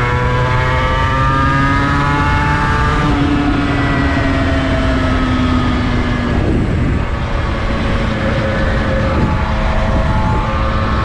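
Honda NSR250R's two-stroke V-twin engine under way: its pitch climbs steadily, drops at a gear change about three seconds in, then holds fairly steady. A heavy low rush of noise runs underneath.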